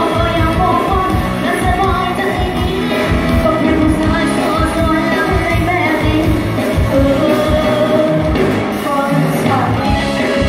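A singer performing live over an amplified band, with a steady beat and a sung melody.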